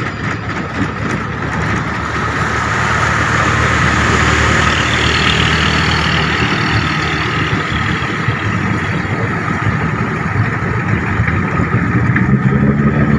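A vehicle engine running in floodwater traffic, with a broad rushing hiss that swells and fades over the middle and a low engine hum growing stronger near the end.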